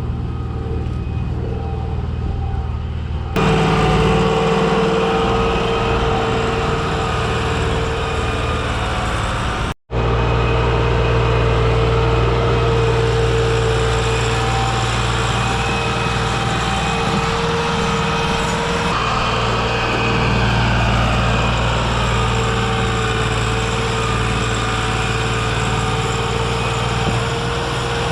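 Diesel tractor engine running steadily. The sound changes abruptly about three seconds in and cuts out for an instant near the ten-second mark.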